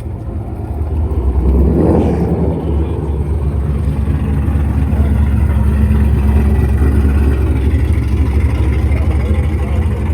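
Car engine running with a deep, steady low rumble, swelling briefly about two seconds in.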